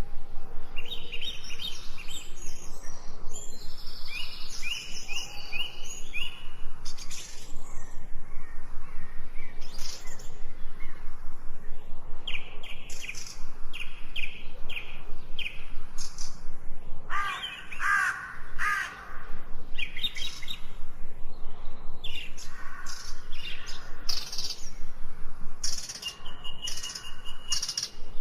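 Several songbirds singing at once in a forest, with overlapping quick repeated chirps and trills and a lower run of notes about two-thirds of the way through.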